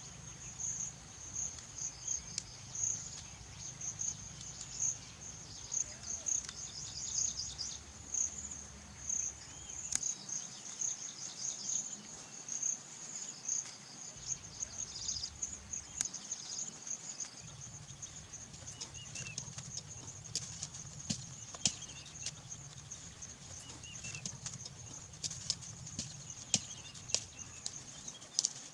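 Insects chirping steadily in a fast, high-pitched pulsing trill, with rustling and scattered sharp clicks in the second half.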